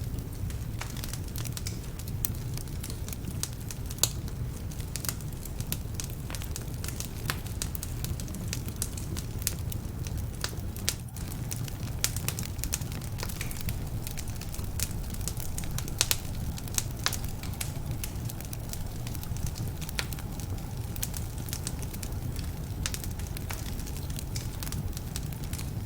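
Wood fire burning in a fireplace: a steady low rumble of flame with frequent irregular sharp crackles and pops from the logs, some of them damp.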